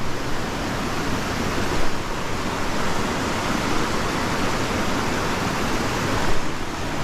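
River water rushing steadily over the stones, a constant hiss of flowing water.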